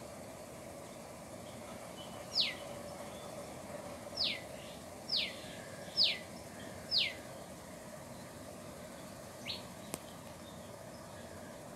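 A small bird gives short, clear calls, each sliding steeply down in pitch: five about a second apart, then a fainter one a couple of seconds later. A single sharp click comes near the end, over a steady background hiss.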